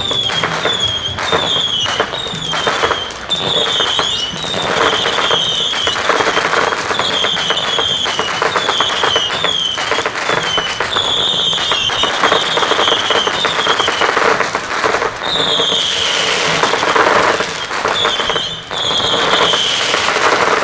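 A Supreme Fireworks SkyBlaster, a 240-shot Saturn missile battery, firing in rapid succession. The whistling missiles overlap, each whistle sliding slightly down in pitch, over a constant clatter of sharp pops and crackle.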